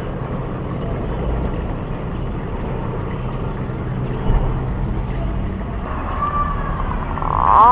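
Green pigeon (punai) call recording: a steady rushing, rumbling background with a faint whistled call about six seconds in, then a loud gliding whistled call beginning right at the end.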